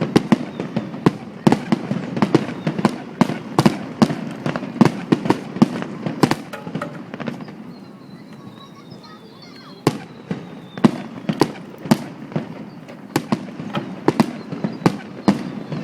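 Fireworks display bursting in rapid succession, many sharp bangs and cracks several a second; the bursts thin out for about two seconds midway, then start again.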